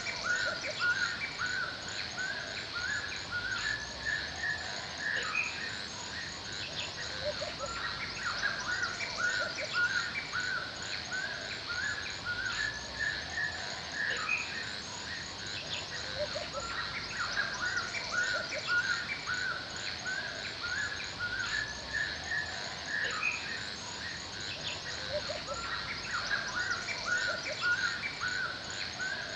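Forest birds chirping and singing continuously in a dense chorus of short, repeated calls, over a steady high-pitched insect drone.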